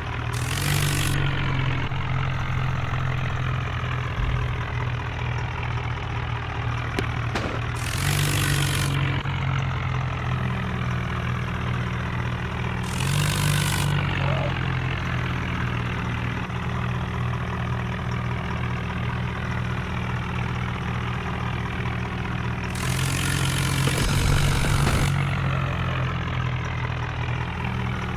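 Tractor diesel engine running steadily at low speed, its pitch stepping up briefly several times with a rushing noise, as when the throttle is opened.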